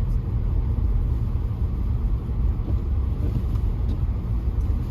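Steady low rumble of a moving car heard from inside the cabin: engine and tyre noise while driving on snowy roads.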